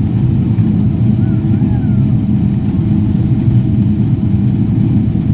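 Steady low rumble of a Boeing 777-300ER's engines and airflow, heard from inside the cabin in flight.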